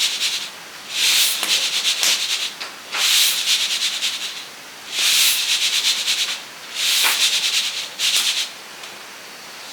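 Roasted coffee beans tossed in a container, a dry rattle of many beans in repeated bursts about every two seconds, as they are winnowed to cool them and shake off the chaff.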